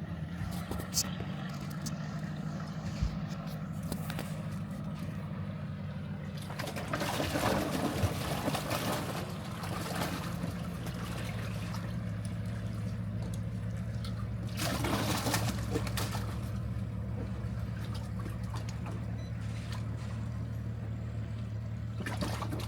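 Water splashing and pouring in two bursts, about a third of the way in and again about two-thirds in, over a steady low machine hum that shifts pitch slightly near the middle.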